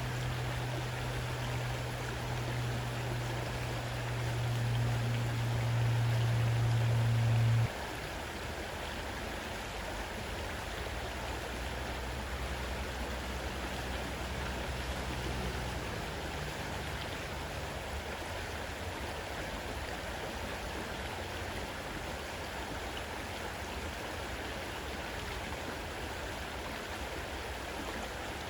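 Fast-running river water rushing steadily. A deep steady hum, the loudest sound in the first part, stops suddenly about eight seconds in. A fainter, lower hum then carries on until about halfway through.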